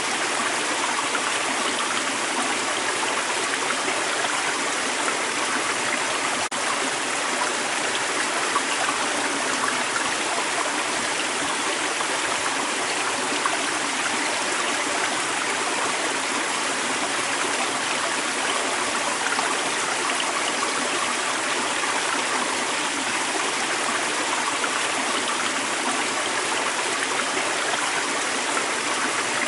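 Creek water running over rocks, a steady, even rush of flowing water.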